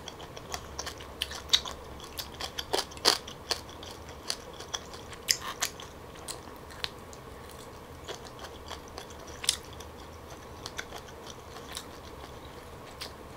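Close-miked mouth sounds of chewing steamed tiger prawn: soft wet chewing with irregular crisp clicks, thickest in the first few seconds and sparser after.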